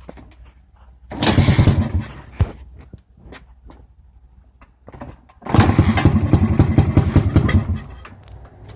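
1989 Honda XR100 single-cylinder motorcycle engine being kick-started twice. It turns over in rapid pulses, about a second the first time and about two and a half seconds the second, then fades out without catching. The bike won't start even though its timing and carburettor have been checked.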